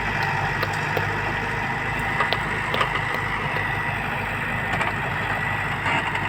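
A heavy machine's engine running steadily at low speed, with a few light clicks and knocks over it.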